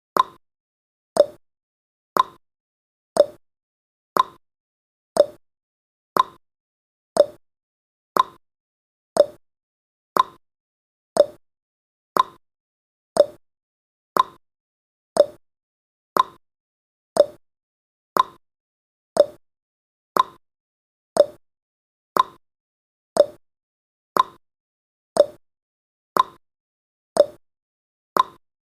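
A countdown timer's ticking sound effect: one short click every second, evenly spaced and steady.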